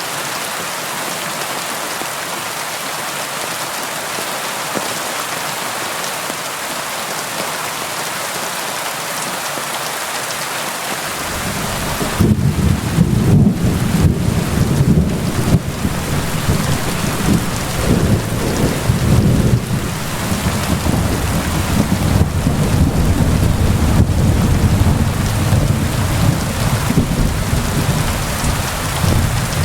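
Steady rain hissing. About eleven seconds in, a low rolling rumble of thunder comes in under it and keeps going, swelling and easing, and the whole sound grows louder.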